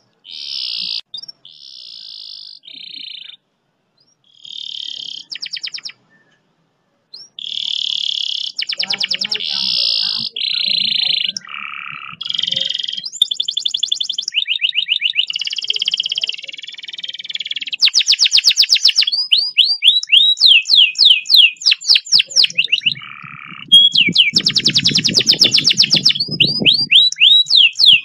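Domestic canary singing a master training song. Short phrases come with brief pauses at first; from about two-thirds of the way in come long, fast rolls of rapidly repeated sweeping notes.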